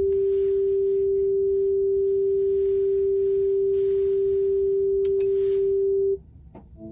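Car's electronic warning beeper holding one steady tone for about six seconds, then cutting off suddenly, followed by a faint click.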